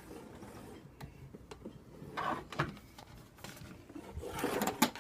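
Handling noises from a plastic box fan being moved about: scattered light clicks and knocks, with two short stretches of rubbing, about two seconds in and near the end. The fan is not running.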